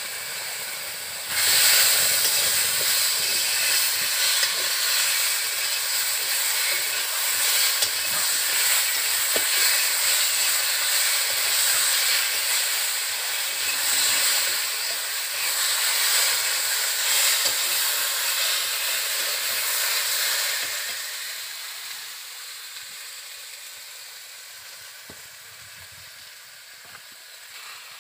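Masala paste and vegetables sizzling in hot oil in an iron kadai while being stirred with a metal spatula. The hiss comes on loudly about a second in and dies down gradually over the last several seconds as the pan settles.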